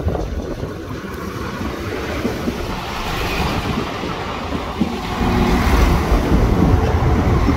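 Northern Ireland Railways diesel multiple unit passing close by over a level crossing: engine and wheels on the rails, getting louder as the carriages go by, loudest from about five seconds in.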